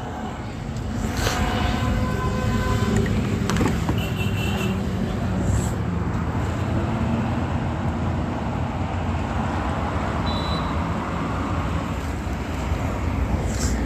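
Steady low rumble of road traffic or a nearby motor vehicle, with a few faint clicks and brief short tones over it.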